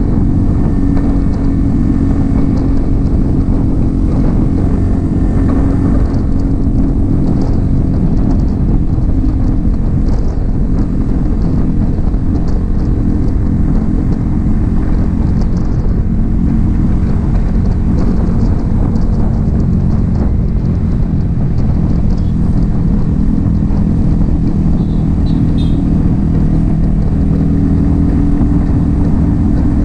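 Yamaha XSR 155's single-cylinder engine running through an M4 aftermarket exhaust while the bike is ridden, held at a fairly steady engine speed with only slight rises and falls in pitch.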